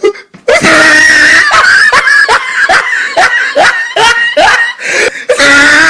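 High-pitched shrieking laughter: a long squeal, then rapid bursts of laughing at about three a second, ending in another held squeal.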